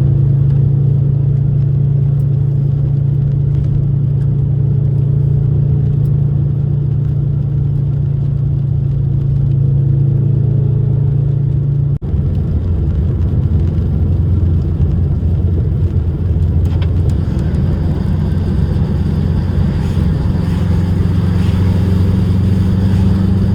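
Subaru WRX turbocharged flat-four engine pulling steadily while driving, heard from inside the cabin with road noise. About halfway through, the sound drops out for an instant and the engine note comes back at a different pitch with more hiss.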